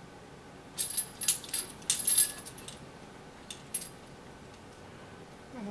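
Parrot toys and perch parts on a foraging tree jangling and clicking as a parrot climbs and plays in it. A quick cluster of sharp, metallic-sounding clicks starts about a second in and lasts under two seconds, followed by a couple of faint clicks.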